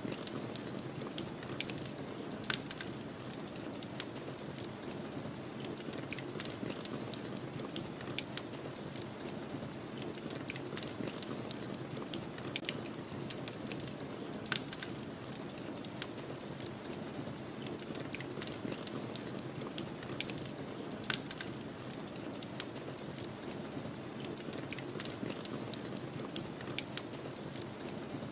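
Wood fire crackling, with irregular sharp pops and snaps, over a steady low rush of snowstorm wind.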